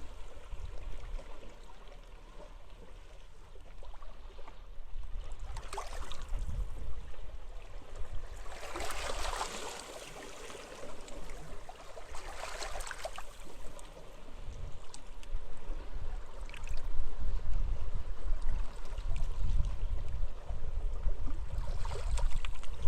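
Sea waves washing onto a beach, with a few louder washes midway, while gusting wind rumbles on the microphone and grows stronger in the second half.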